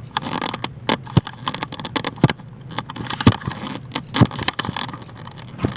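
Irregular sharp clicks, knocks and light metallic clinks of objects being handled and set against one another, with several louder knocks spread through.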